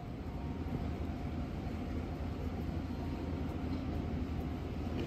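Steady low rumble of an electric train approaching in the distance.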